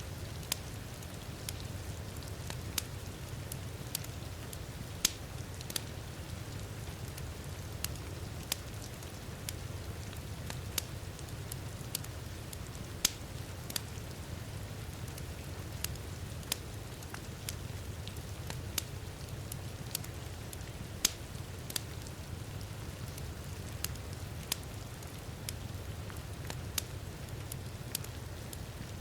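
Wood fire crackling in a fireplace, with sharp, irregular pops about once or twice a second, over a steady low rumble and the even hiss of heavy rain.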